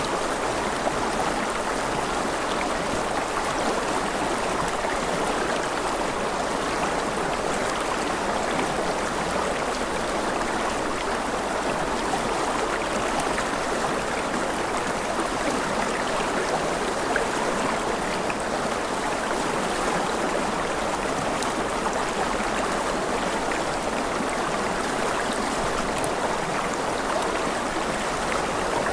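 A stream of running water flowing steadily, an even rushing sound with no breaks.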